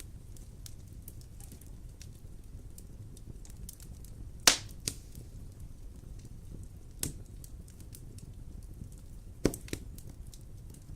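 Wood fire burning in a fireplace: a steady low rumble of flames under light crackling, with a few sharp pops of the burning wood, the loudest a little before the middle and two more later on.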